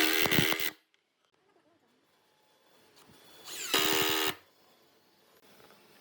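Power tool motor run in two short bursts, each under a second, about three and a half seconds apart.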